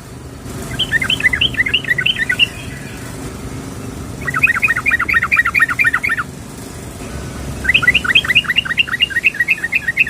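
Yellow-vented bulbul (trucukan) calling in three bursts of quick, rapidly repeated chattering notes, each burst about two seconds long. The uploader labels it a female calling a male, used to lure males. A faint low hum runs underneath.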